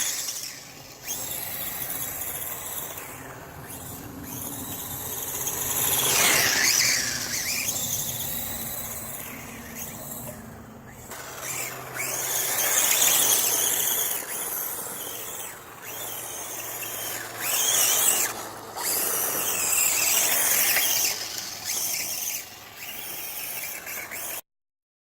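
Electric motor and drivetrain of a Duratrax DX450 radio-controlled motocross bike whining high, rising and falling in pitch as the throttle is opened and eased off. The sound cuts off suddenly near the end.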